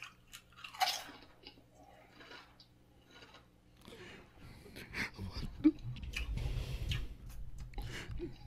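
A person biting into and chewing Pringles potato chips, with scattered crisp crunches. A low rumble joins in the second half, with one sharp click partway through it.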